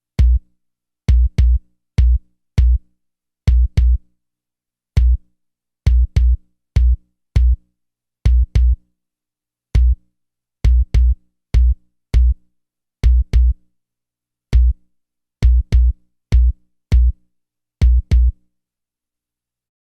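60 Hz bass test signal from an audio test CD: short, loud low bass thumps in a drum-machine-like beat, some single and some in quick pairs. The thumps stop about two seconds before the end.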